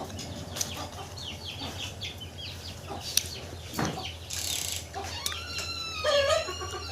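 Animal calls: short high chirps in the first second, then a long call with several overtones starting about five seconds in, over scattered faint clicks.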